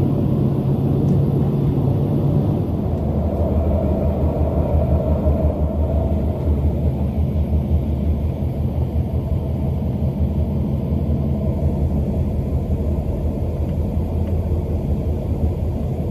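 Steady low rumble of a GoldenPass (MOB) panoramic train running along the line, heard from inside the carriage.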